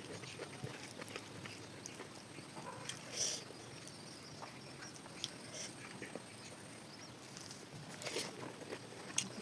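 Close-up eating sounds while eating fish curry: chewing and small wet mouth clicks, with two louder short bursts about three seconds and eight seconds in.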